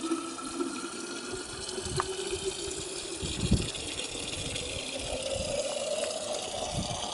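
Water running from a tap or spigot into a container, a steady gushing hiss whose tone rises in the second half as the container fills.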